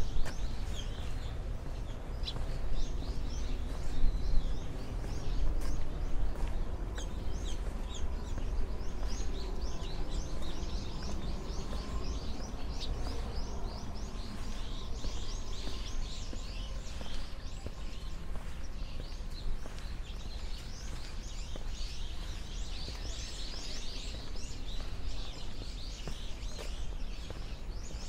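A flock of small songbirds chirping and twittering continuously, busiest in the second half, over a steady low rumble.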